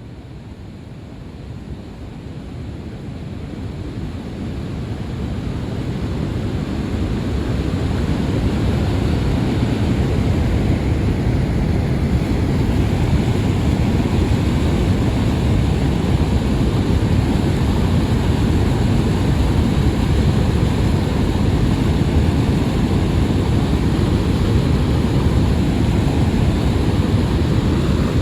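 Niagara Falls' water roaring as a steady, heavy rush, heaviest in the low end, growing louder over the first several seconds and then holding.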